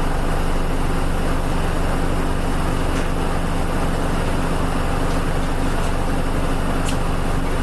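Inside the cabin of a Nissan Diesel KL-UA452MAN route bus, its diesel engine running at a steady pitch, with a few faint clicks.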